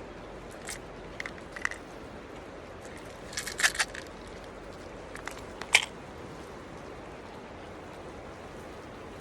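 Steady rush of creek water, with a few short crunching clicks close by. The loudest clicks come in a cluster just before 4 s and a sharp one near 6 s.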